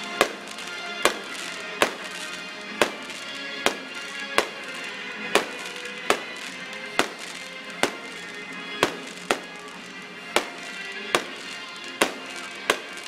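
Fireworks shells bursting in the sky, with sharp bangs about once a second, about sixteen in all, over music playing steadily underneath.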